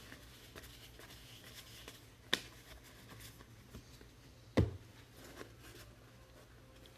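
Faint rustling of trading cards and pack wrappers being handled, with a sharp tap about two seconds in and a louder knock with a dull thud about four and a half seconds in.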